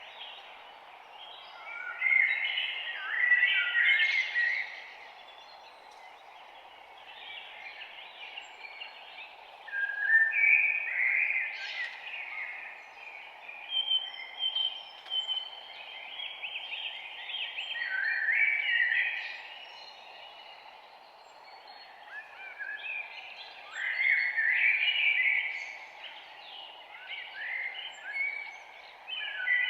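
Forest songbirds singing, with chirping song phrases coming in spells every several seconds over a steady background hiss.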